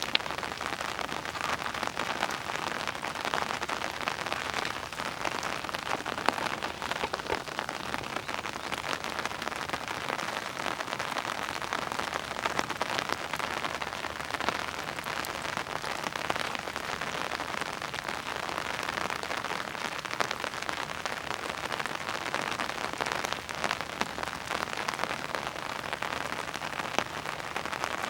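Steady rain falling, with many close drops pattering on surfaces.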